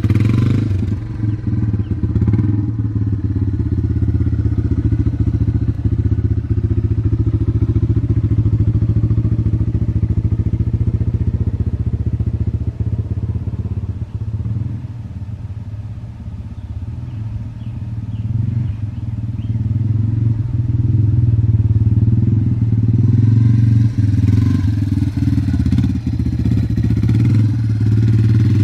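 Yamaha TTR230 dirt bike's single-cylinder four-stroke engine running as it is ridden. It dips in loudness about halfway through and grows louder again over the last several seconds.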